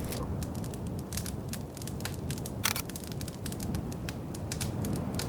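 Wood fire crackling in a fireplace: irregular sharp pops and snaps over a low, steady rumble of the flames, with one louder pop about two and a half seconds in.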